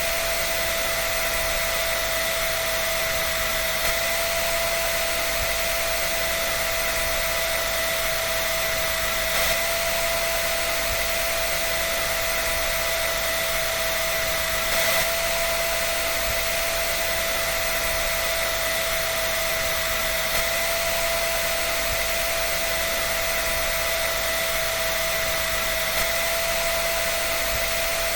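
Hair dryer running steadily: an even rush of blown air with a constant high whine from the motor.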